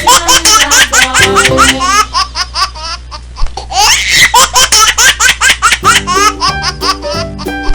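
A baby laughing in quick, repeated peals, over children's background music. The laughter comes in two runs with a short lull about three seconds in.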